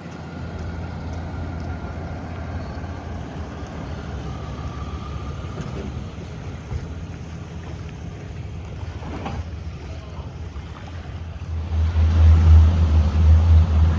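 Engine running with a steady low drone, growing louder near the end.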